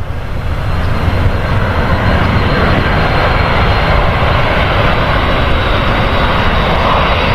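Jet airliner engines, a loud steady rushing noise with a thin high whine, building over the first second and then holding level.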